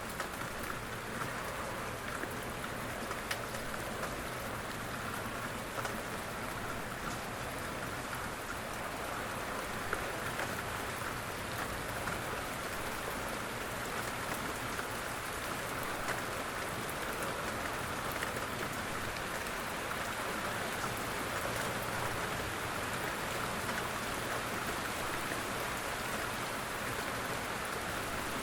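Steady, gentle rain falling, with a constant hiss and scattered drop ticks.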